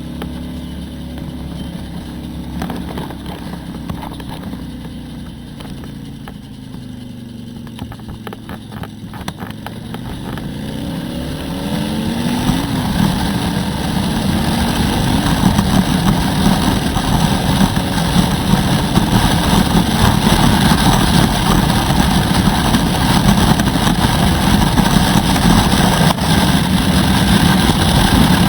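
Harley-Davidson Road Glide V-twin engine, heard from the rider's helmet: the engine note falls as the bike slows, then rises again through the gears. From about halfway through it pulls hard and cruises at speed, with heavy wind rush over the microphone louder than the engine.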